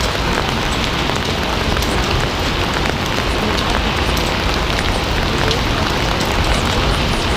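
Steady heavy rain falling on a surface, a dense even hiss with scattered individual drop ticks.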